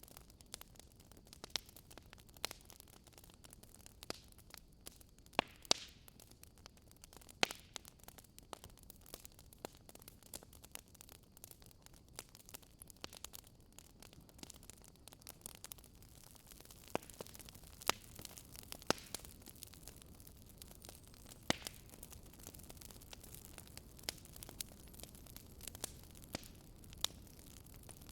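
Campfire burning, wood crackling and popping in irregular sharp snaps over a soft steady hiss, with a few louder pops here and there.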